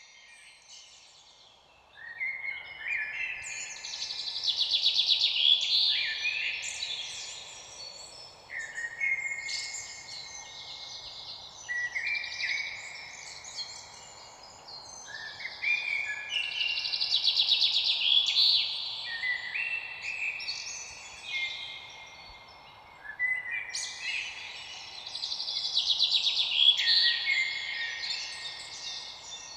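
Several songbirds singing, their overlapping trilled and whistled phrases coming back every few seconds over a faint steady hiss.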